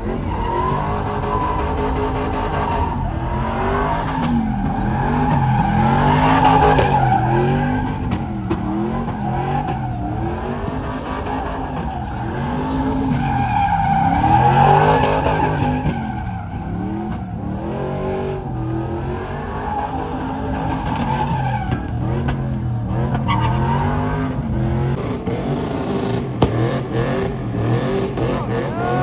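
Truck engine revving up and dropping back over and over, with tires squealing and skidding on pavement. The squeal swells loudest twice, about six and fourteen seconds in.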